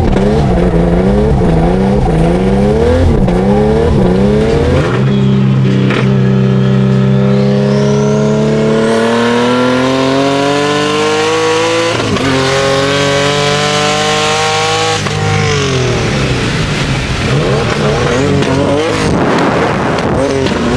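Turbocharged Infiniti G37 V6 drift car engine, revved up and down rapidly for the first few seconds, then holding a steady pitch before pulling up through the revs twice with a shift between. A stretch of tyre and engine noise follows near the end.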